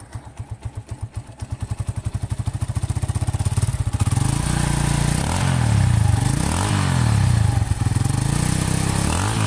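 Honda Megapro's single-cylinder four-stroke engine running through its original stock muffler. It idles with an even putt, then the revs climb from about a second and a half in and rise and fall several times as the throttle is blipped.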